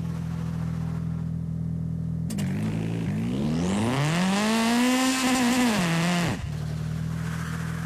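Car engine sound in a driving video game, idling steadily, then revving up a little over two seconds in, climbing in pitch and falling back to idle about six seconds in.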